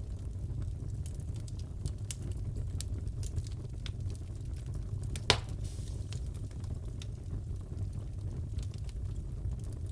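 Crackling wood fire: a steady low rumble of flames with scattered small crackles and one loud pop about halfway through.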